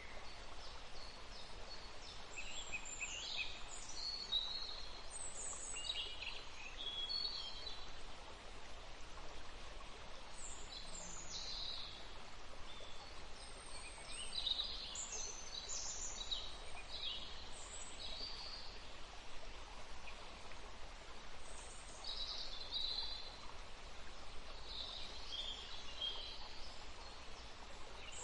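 A river flowing steadily, with birds singing and chirping over it in short bursts throughout.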